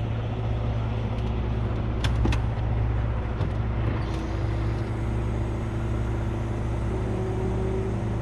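Diesel truck engine idling steadily, a low even hum, with a few light clicks about two and four seconds in.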